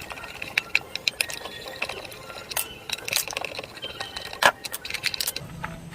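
Irregular light clicks and clinks of small fan parts and tools being handled while a part is removed, with one louder knock about four and a half seconds in.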